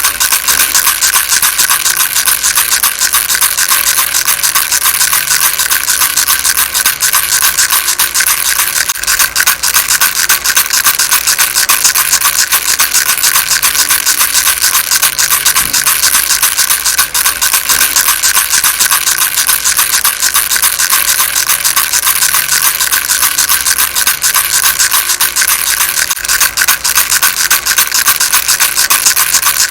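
Baby rattle shaken without pause: a steady, dense, fast rattling of small pellets inside it.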